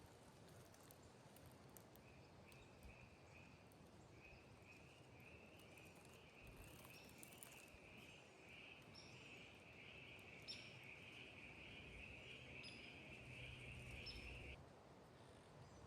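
A high, rapidly pulsing trill from a calling animal that starts about two seconds in, grows a little louder and stops suddenly near the end. A few short, higher chirps come over it. The woods are otherwise near silent.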